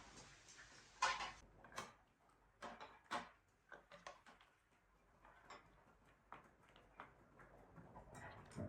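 Scattered light clicks and taps of chopsticks and spoons against bowls at a meal, faint, with one sharper knock about a second in.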